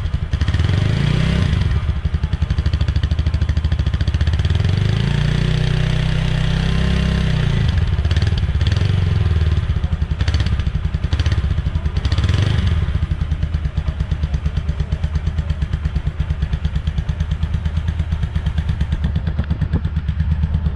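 TVS Apache RTR 160 4V's single-cylinder fuel-injected engine running through its double-barrel exhaust at a steady, pulsing idle. It is revved briefly about a second in, held at higher revs from about four to eight seconds in, and given a few quick blips around ten to twelve seconds in before settling back to idle.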